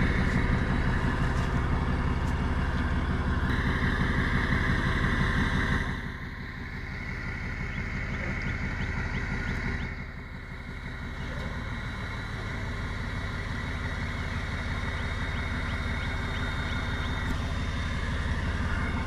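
Tow truck engine running steadily, dropping in level about six seconds in and again about ten seconds in.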